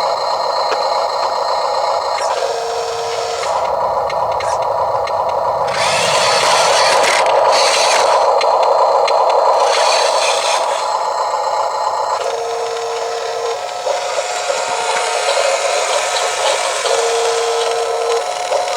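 The small electric motors and gearboxes of a Huina 1582 RC dump truck whining as it is driven, with rattling and scraping. A separate steady tone switches on and off in spells of about a second, three times.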